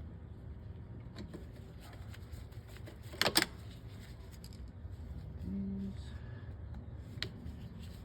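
Small metal bolts clinking as they are picked up and handled. A pair of sharp clinks comes about three seconds in, and a lighter click near the end.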